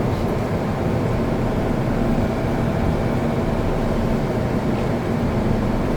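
MTR M-Train electric multiple unit running at steady speed, heard from inside the car: a continuous low rumble of wheels on track with a faint steady hum.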